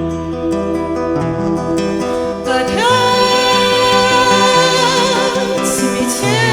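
Acoustic guitar playing a steady accompaniment, joined about two and a half seconds in by a voice singing long held notes with vibrato.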